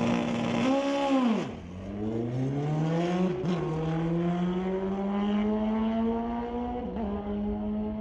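Drag-racing engine at high revs, blipped up and down about a second in, then pulling hard with its pitch climbing steadily and two brief dips at gear shifts, about three and a half and seven seconds in.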